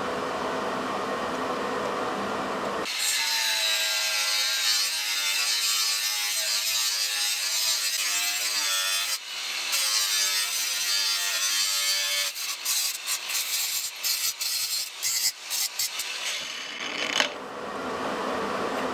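Angle grinder working on steel, a dense grinding noise with a wavering whine, broken into stop-start passes in the middle.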